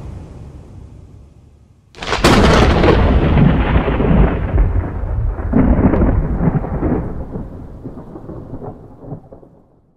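Thunderclap sound effect for a logo intro. It starts suddenly about two seconds in and its rumble fades slowly over the next several seconds. Music fades out just before it.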